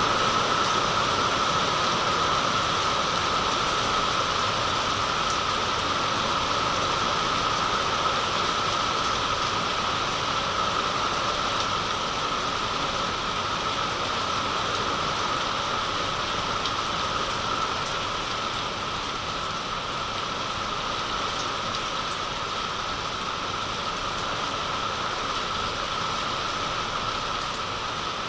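Heavy rain falling steadily, a constant hiss of drops with no let-up, easing slightly in level over the stretch.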